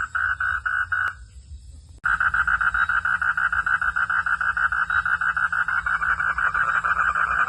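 A frog calling in a fast, even train of pulses, about six a second. The call stops about a second in, and after a pause of about a second it starts again suddenly and keeps going.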